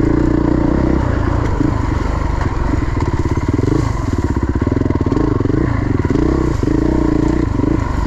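Dirt bike engine running under the rider, its pitch rising and falling over and over as the throttle is worked on and off through tight, brushy single track.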